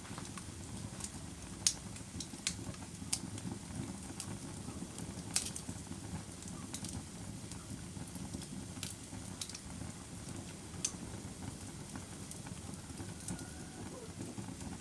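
Wood fire burning in a fireplace: sharp, irregular crackles and pops over a steady low rush of flames.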